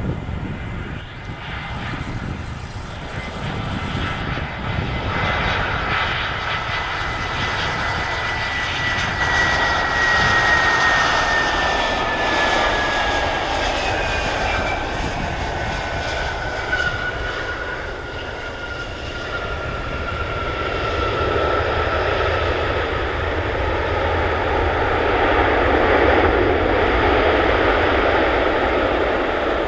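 Airbus A320-232 jet engines (IAE V2500 turbofans) running as the airliner lands, a steady roar with a whine that falls slowly in pitch over several seconds. The roar swells twice, the second time near the end.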